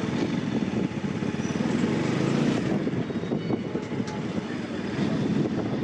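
Bajaj Pulsar NS200's single-cylinder engine running steadily, a fast even beat of firing pulses.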